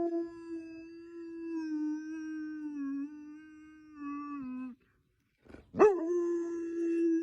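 A dog howling: one long held howl that sinks slowly in pitch and stops just before the halfway point. After a second's pause, another howl starts with a quick upward swoop and holds steady.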